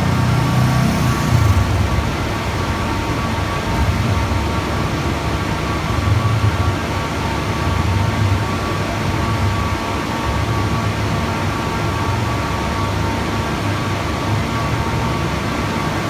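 Motorcycle engines running, the deep engine sound swelling and easing every couple of seconds as the bikes are ridden through a slow practice course.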